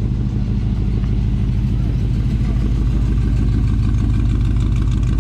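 A vehicle's engine running steadily near the microphone, a low exhaust rumble with a fine rapid pulse, rising slightly about halfway through.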